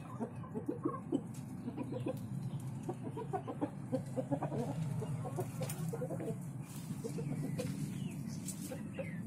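Domestic hens clucking: many short, irregular clucks from several birds, over a steady low rumble.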